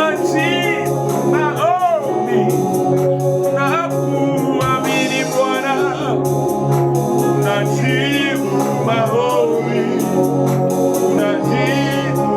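Gospel music: a solo voice sings with a wavering, sliding pitch over sustained organ chords and a steady percussion beat.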